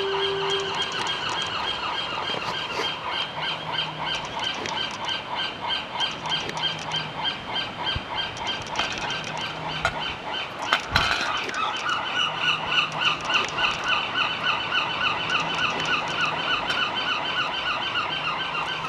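Young gull calling with a long run of rapid, evenly repeated high squealing notes, the persistent call a gull chick uses to beg for food. A single sharp thump sounds about eleven seconds in.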